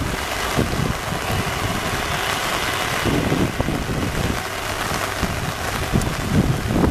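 Heavy rain falling steadily, a dense hiss, with low rumbles coming and going underneath.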